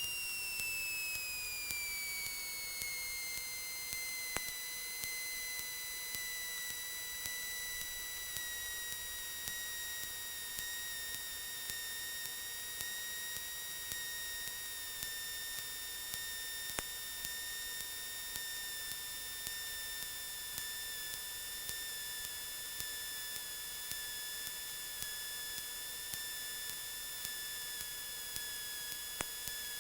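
Steady electrical whine in a Cessna 172's headset intercom audio: a high tone that slowly falls in pitch, with a faint tick about once a second.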